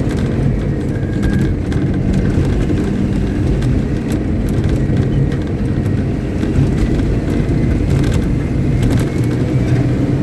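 Caterpillar 777D haul truck's large diesel engine running steadily under test, a loud, even low rumble.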